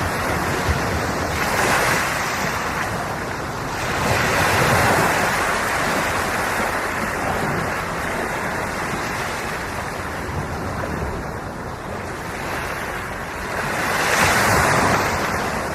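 Ocean waves breaking and washing on the shore, in a steady wash with swells about every few seconds, the loudest near the start, around four to five seconds in and again near the end. Some wind noise on the microphone.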